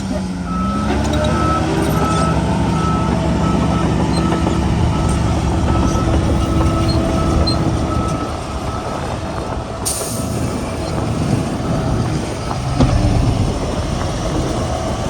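Heavy diesel earthmoving machinery running under load, its engine pitch rising in the first second. A reversing alarm beeps about twice a second through the first half, and a brief hiss of air sounds about ten seconds in.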